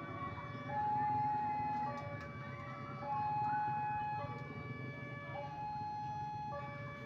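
Electronic two-tone warning alarm alternating between a low and a high note, each held for about a second, over a steady low rumble.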